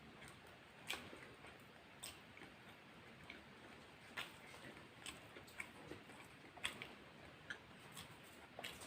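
Faint mouth sounds of a person chewing a meal: irregular soft wet clicks and smacks, one every half second or so, over a low hiss.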